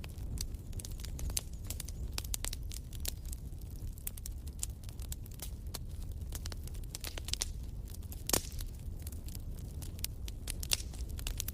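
Fireplace fire crackling, with many small irregular pops over a steady low rumble and one louder pop about eight seconds in.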